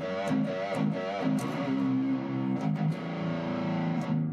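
Seven-string electric guitar with active pickups played through an amp and speaker cabinet: held notes, wavering with vibrato in the first second, then steadier sustained notes and picked attacks.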